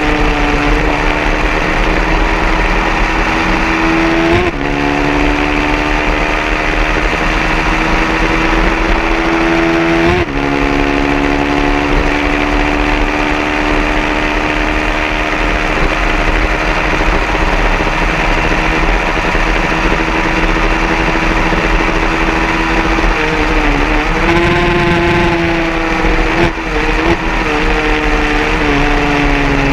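150cc racing motorcycle engine running hard at a high, nearly steady pitch. About four and ten seconds in, the note climbs briefly and then drops sharply, as at an upshift, and it wavers up and down near the end.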